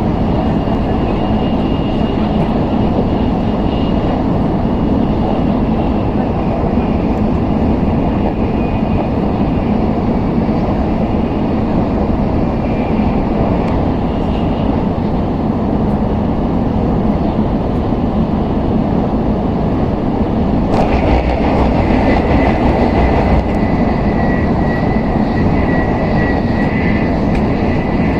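Inside the cabin of an N700S Shinkansen running at speed: a steady rushing rumble with faint high whines. About two-thirds of the way in, the noise turns brighter and a little louder, and a steady high whine sets in.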